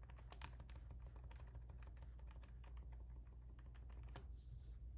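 Computer keyboard keys tapped repeatedly in quick, irregular clicks, the arrow keys steering the game's monkey, over a steady low hum.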